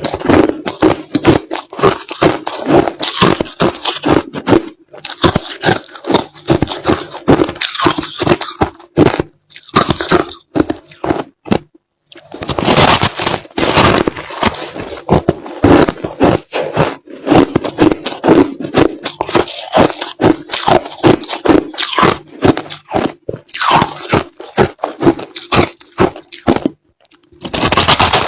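Crushed ice being chewed close to the microphone: rapid, crisp crunches one after another, with a few short pauses between mouthfuls.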